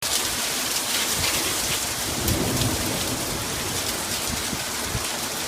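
Hailstones and heavy rain pelting down in a thick, steady clatter of countless small impacts, with a low rumble about two and a half seconds in.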